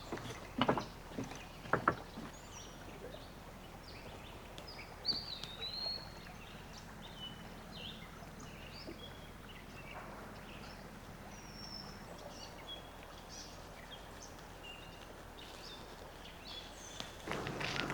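Small birds chirping in short, varied high notes scattered throughout. There are a few footsteps on the ground in the first two seconds, and walking starts again near the end.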